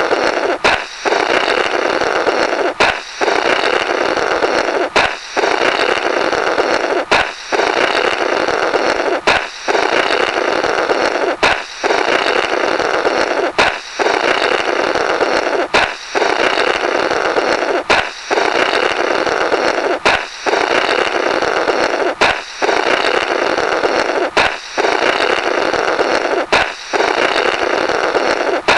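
Comedy sound effect of a balloon popping, followed by a raspy 'blorrrt' of someone blowing through the burst balloon's remnants. It repeats as a loop about every two seconds, around thirteen times.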